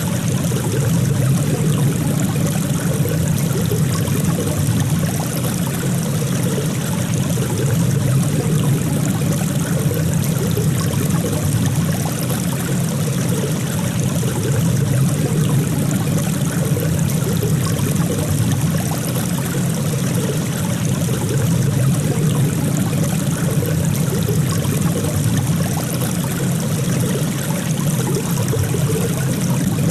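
Flowing water running steadily: an even, continuous rush, fullest in its low part, with no swells or breaks.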